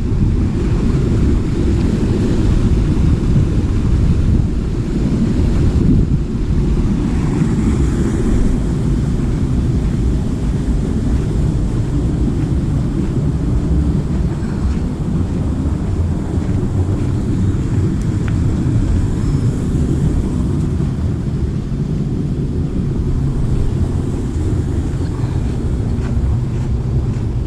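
Wind buffeting the microphone: a loud, steady, low rumble that flutters in level.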